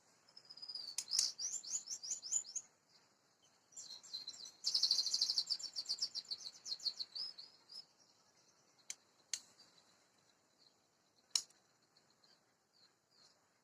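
Male white-rumped shama singing two fast runs of high repeated notes, the second longer and louder. A few sharp clicks follow in the second half.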